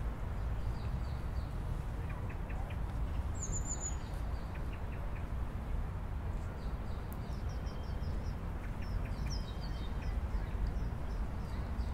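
Outdoor ambience: a steady low rumble with small birds chirping in short, high calls scattered throughout.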